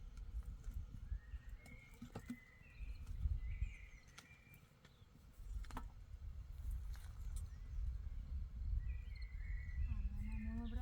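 Wind rumbling on the microphone, with short bird chirps a few seconds in and again near the end, and a few sharp clicks.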